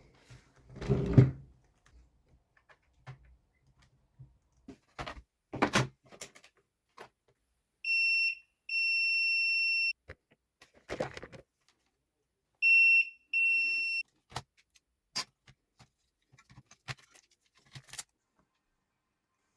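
Multimeter continuity beeper sounding twice, each time a short beep followed by a longer steady high tone as the probes touch: a very low resistance reading on the laptop's 19 V main line, the sign of a short circuit. Clicks and clatter of probes and tools being handled come around the beeps, the loudest about a second in.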